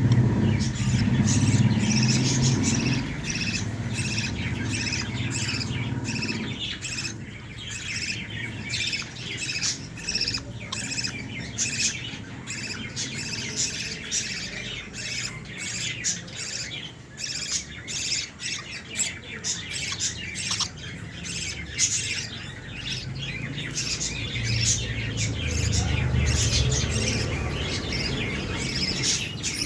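A flock of small birds chirping and squawking continuously with many overlapping short calls, over a low rumble at the start and again in the last few seconds.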